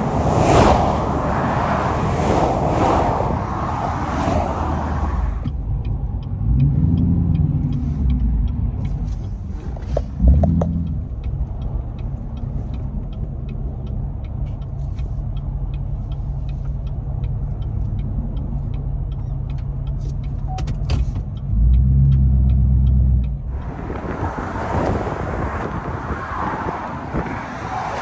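Highway traffic rushing past with wind noise. About five seconds in, it cuts to a steady low vehicle engine idle with faint, evenly spaced ticking and a few low swells. Passing traffic returns near the end.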